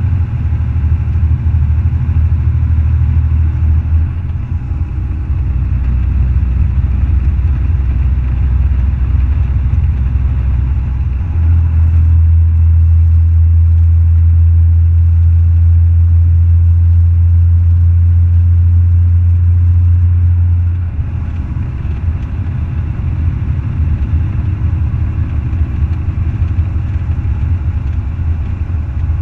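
Semi truck's diesel engine running with a steady low drone; it rises to a louder, very even note from about a third of the way in until about two-thirds through, then settles back.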